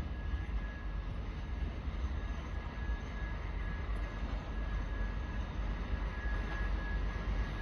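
TEP70BS diesel locomotive and its passenger train approaching: a steady low rumble with a thin, steady high tone held throughout.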